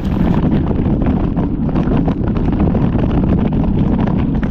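Wind buffeting the microphone of a camera carried on a moving ride: a loud, steady, low rumble with rapid flutter.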